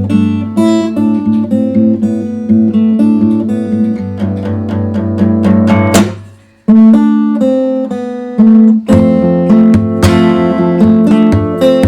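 Acoustic guitar played fingerstyle: a plucked melody over ringing bass notes. About six seconds in comes a sharp strike, and the sound dies away for a moment before the playing picks up again.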